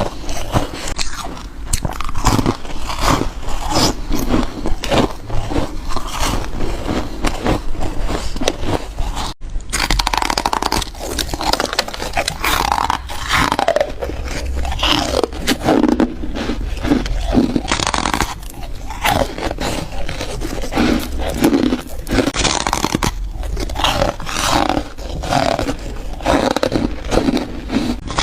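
Foam ice being bitten and crunched close to the microphone: a rapid, continuous run of crunchy bites and chewing, with a momentary break about nine seconds in.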